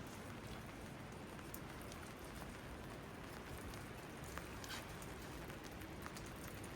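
Steady rain falling, with single drops ticking sharply close by now and then.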